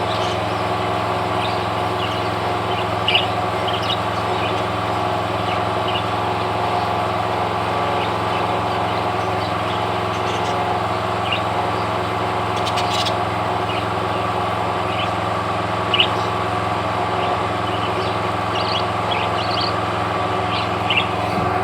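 Scattered short, high chirps from small parrots over a steady mechanical hum.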